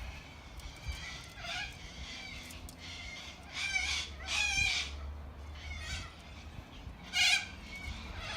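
A bird giving about four short, harsh calls, the loudest a pair a little before the middle and one near the end.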